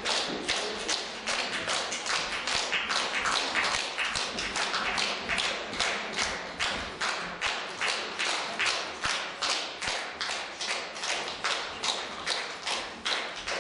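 Audience clapping in unison, a steady rhythmic beat of about three claps a second.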